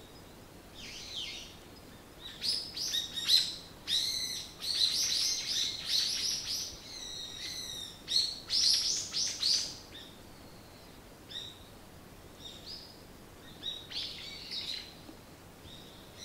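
Small birds chirping and calling in quick repeated phrases, busy for the first ten seconds or so, then scattered, softer chirps.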